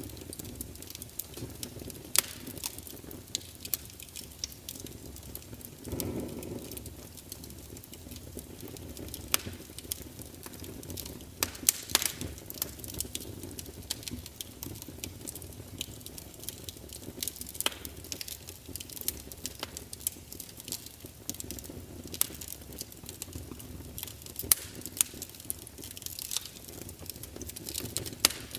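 Wood fire burning and crackling: frequent sharp pops and snaps over a steady low rumble of the flames, with a brief louder swell about six seconds in.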